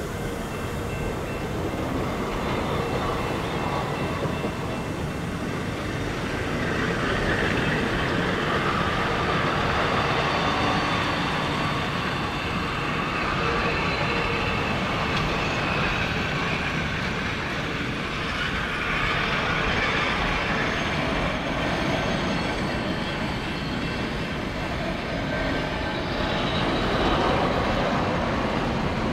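Passenger cars of a train rolling past close by: a continuous rumble and rattle of steel wheels on the rails that swells and eases gently as the cars go by.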